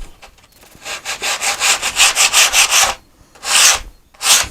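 Hand sanding along the edge of a wooden panel: a quick run of back-and-forth strokes, about five a second for two seconds, then two longer separate strokes near the end.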